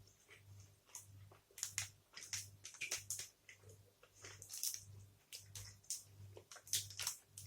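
Close-up chewing of a sticky toffee protein bar: faint, irregular wet clicks and smacks of the mouth.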